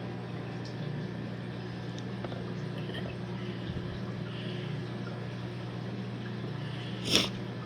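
Steady low electrical hum of aquarium equipment such as a filter or pump, with a brief hiss about seven seconds in.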